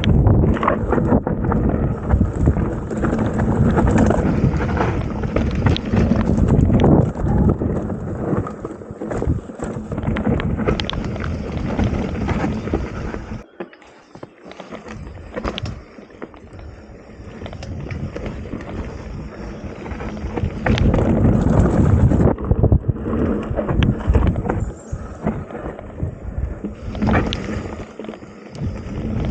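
Mountain bike descending a rough enduro trail: wind rushing over the microphone, with the tyres and frame rattling and knocking over the uneven ground. It eases off briefly about halfway, then picks up again.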